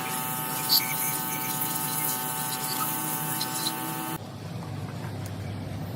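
A small motor whining steadily, with a sharp click about a second in. The whine cuts off abruptly about four seconds in, leaving a low rumble.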